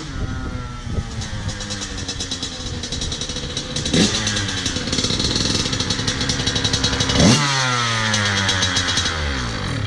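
Dirt bike engine running, sharply revved about four seconds in and again about seven seconds in, then its revs falling away near the end.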